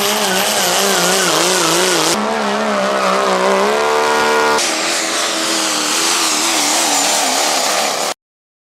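Turbo-diesel pickup truck engines at full throttle under load, in three clips joined by hard cuts. The engine pitch wavers up and down throughout, and the sound cuts off abruptly shortly before the end.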